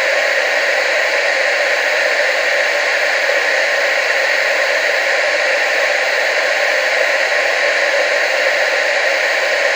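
Television static: a steady, unbroken hiss, strongest in the mid and upper range with almost no bass.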